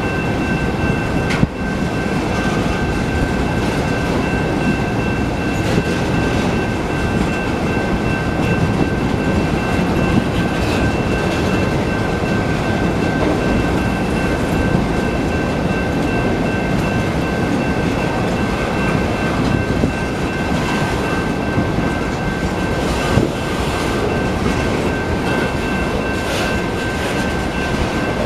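BNSF freight train's cars rolling past at a grade crossing: a steady rumble of wheels on rail, with two steady high tones held over it and a couple of sharp knocks.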